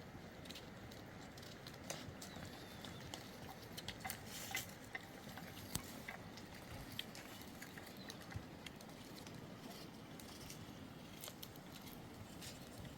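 Faint, scattered small clicks and taps over a low, steady background, like light handling of objects.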